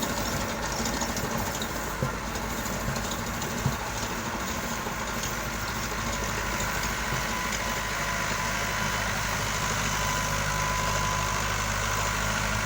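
Fiat 640 tractor's four-cylinder diesel engine idling steadily, with one sharp tap a little under four seconds in.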